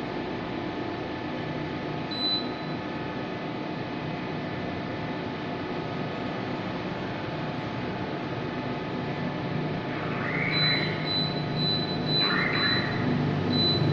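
Daikin split air conditioner running with a steady fan rush and faint hum. A short high beep sounds about two seconds in, and a row of short high pips comes near the end, with the sound growing slightly louder.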